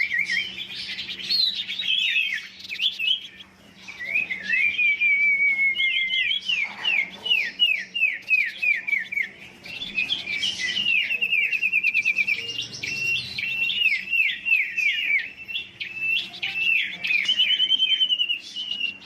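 Huýt cô songbird singing hard, as a decoy bird fired up for a singing contest. It gives fast runs of repeated, sharply down-slurred whistled notes, several a second, broken by brief pauses about three and a half seconds in and near the end.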